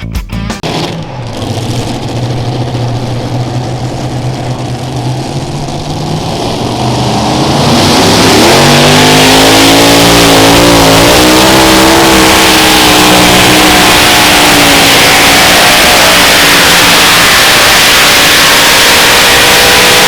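Unlimited modified pulling tractor's engines running at low speed, then opening up to full throttle about seven seconds in and holding at very loud full power, the pitch rising and wavering as the tractor pulls.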